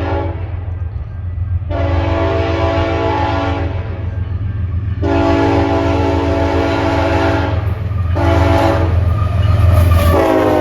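Freight train's diesel locomotive horn sounding a long, long, short, long sequence, the grade-crossing warning pattern, over the steady low rumble of the locomotive engine. The pitch of the last blast drops as the locomotive passes.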